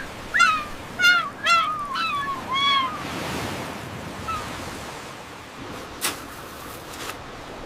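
A cartoon animal voice giving about five short, high, wavering calls over the first three seconds, followed by a soft rushing hiss with a couple of faint clicks.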